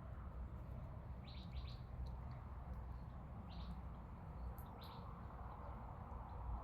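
Faint, short, high bird chirps a few times over steady low background noise.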